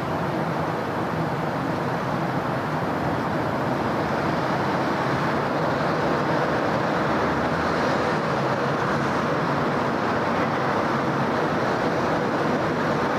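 Steady city road traffic: a dense hum of passing cars and tyre noise, growing slightly louder about four seconds in.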